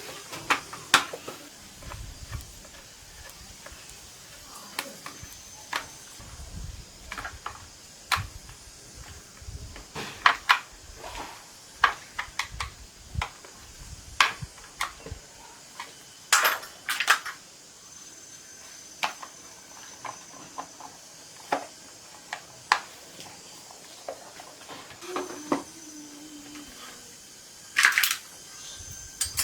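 Irregular metallic clinks and taps of hand tools and small chainsaw parts being handled and set down, a few sharper knocks among them.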